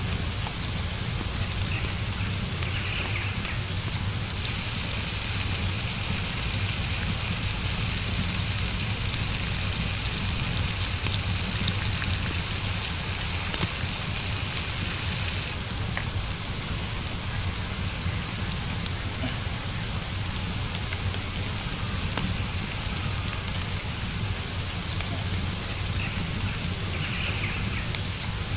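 Steady rain falling. About four seconds in, a louder hiss cuts in abruptly, and it cuts out again about eleven seconds later.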